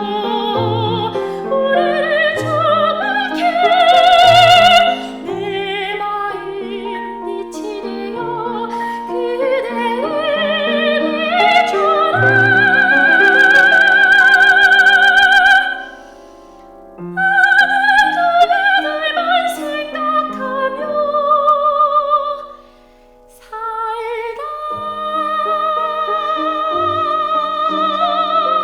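Classical-style singing with strong vibrato and long held notes over piano accompaniment. The music pauses briefly twice, about 16 and 23 seconds in.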